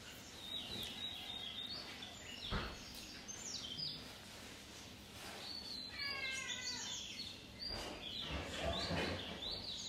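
Birds chirping in the background: many short, quick high chirps, with a lower call of several stepped notes about six seconds in. A single sharp knock about two and a half seconds in.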